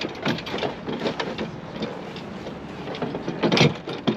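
Gusty wind buffeting, with a stronger gust about three and a half seconds in.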